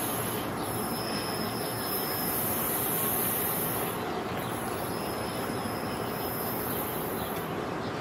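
New Jersey Transit Multilevel push-pull train pulling out of the station, pushed by an ALP-46A electric locomotive. Steady rolling noise, with the wheels squealing on and off.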